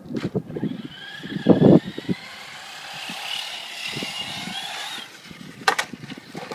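Traxxas Slash RC truck's electric motor whining at speed, the pitch slowly rising for about four seconds before it cuts off. Knocking and rattling from the truck in the first two seconds, and a sharp knock near the end.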